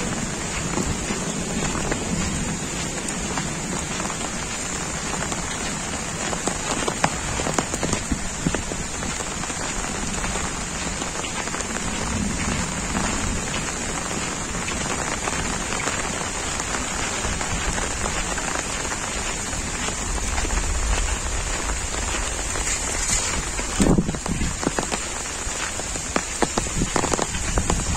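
Heavy monsoon rain falling steadily: a dense, even hiss of rain on leaves and pavement with scattered sharper drop hits. There are a few louder taps about 24 seconds in and again near the end.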